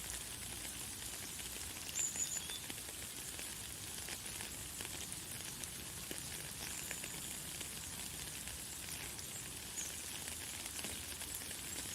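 Light, fine rain falling steadily with a soft crackling patter. A few brief high bird chirps come through, the loudest about two seconds in and another near the end.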